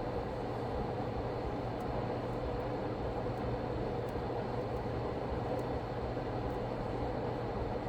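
Steady blowing noise with a low hum, from a hot-air rework station heating the solder joints of a laptop's USB-C charging port on the motherboard.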